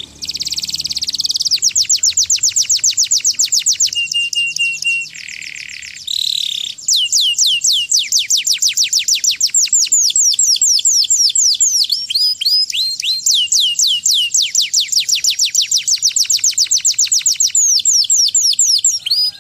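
Domestic canary singing a long, loud song of rapid trills, each a fast run of repeated falling whistles. It switches from one trill to the next, changing speed and pitch.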